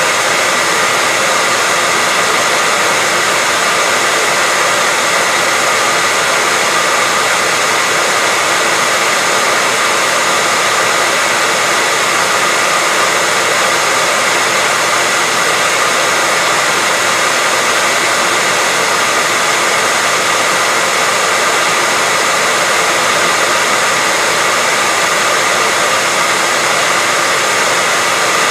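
Hair dryer running steadily: an even, unchanging rush of air with a faint steady whine over it.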